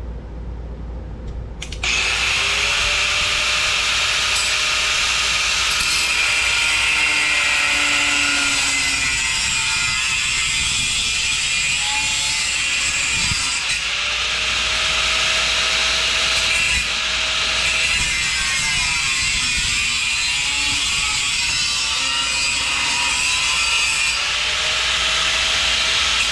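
A power tool cutting steel exhaust tubing: a steady harsh noise with a whine that slides up and down in pitch as the load changes. It starts abruptly about two seconds in.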